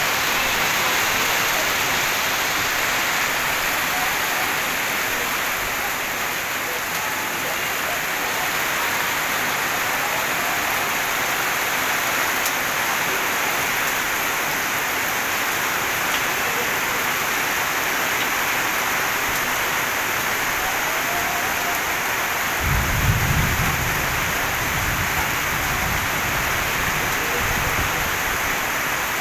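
Heavy rain falling steadily on a paved street, an even hiss. About three-quarters of the way through, a low rumble joins it.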